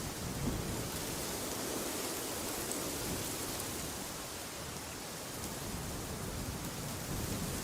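Wind blowing steadily: an even rushing hiss with a shifting low rumble underneath.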